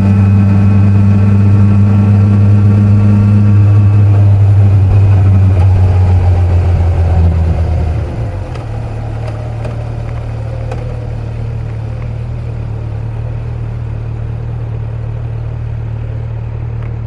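Kawasaki Z900 inline-four motorcycle engine running at a steady speed, then easing off about eight seconds in to a quieter, steady low hum.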